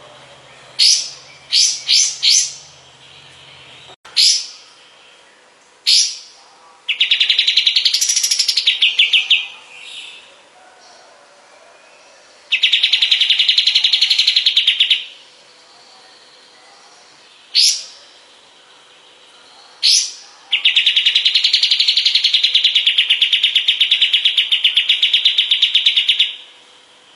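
Kapas tembak bird singing: sharp single notes, some in quick runs of two or three, alternating with long rapid trills of fast repeated notes, the longest lasting about six seconds near the end.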